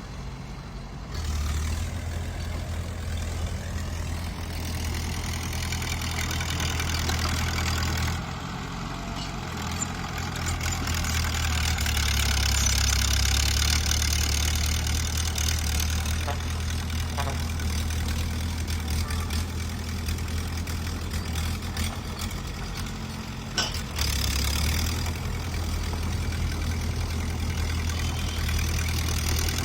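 Small bulldozer's diesel engine working, its note stepping up and down every several seconds as the load changes, with a steady hiss over it that is loudest through the middle.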